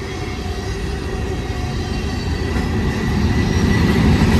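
Freight train cars rolling past on the rails, a steady rumble and rattle of wheels and cars that grows louder toward the end.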